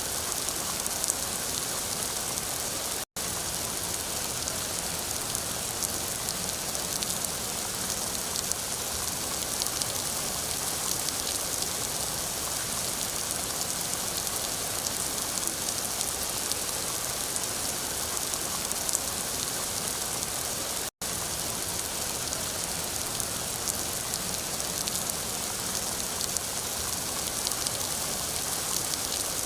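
Rain falling steadily: a dense, even hiss with scattered ticks of drops. The sound cuts out to silence for an instant twice.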